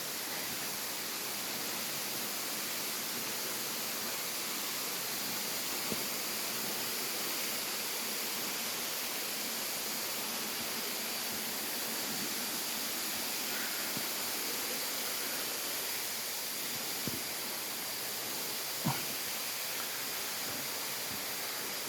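Steady rushing of a waterfall and its stream, with a few faint knocks near the middle and end.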